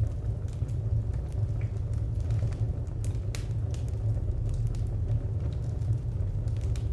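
Wood fire burning with a steady low rumble, with scattered sharp crackles and pops from the burning firewood.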